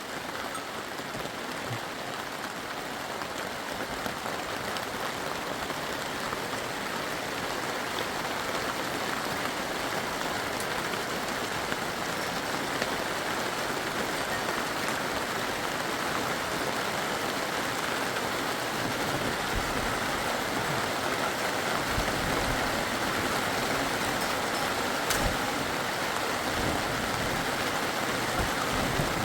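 Steady rain, a dense even hiss that grows slightly louder, with a few brief low knocks in the second half.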